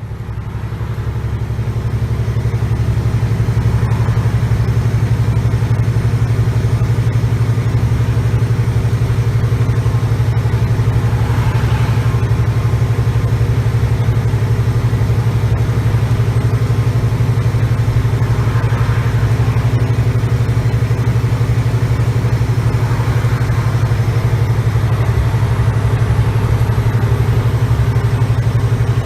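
Big-rig diesel engine running at a steady speed: a deep, even drone that swells over the first couple of seconds and then holds.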